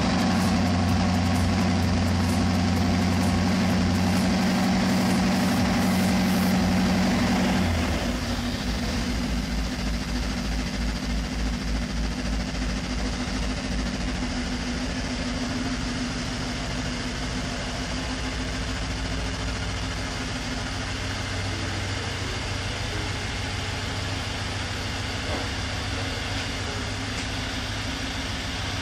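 BMW X5 xDrive50i's twin-turbo V8 idling while it warms up after a cold start, heard from the exhaust end. About eight seconds in, the idle steps down and turns quieter, then runs on steadily.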